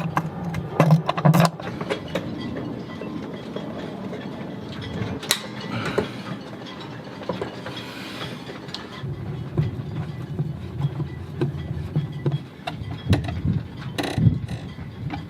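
Hand tools working the fastenings of a boat's master battery switch: scattered small clicks and knocks, with ratchet-like clicking, over a steady low hum.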